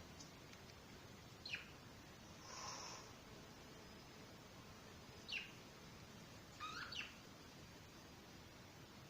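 Budgerigars giving a few short, faint chirps spaced a few seconds apart, the last two close together, with one brief raspy sound between the first two chirps.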